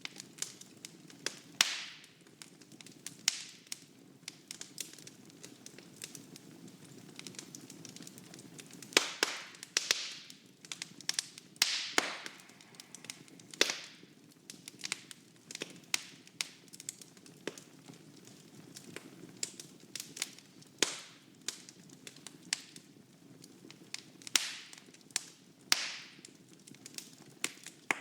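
Wood fire burning in a fireplace: a low steady hiss with sharp crackles and pops at irregular intervals.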